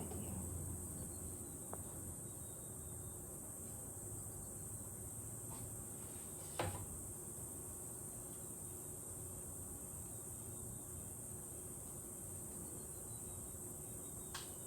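Steady high-pitched chirring of insects, with a sharp click about six and a half seconds in and a fainter one near the end.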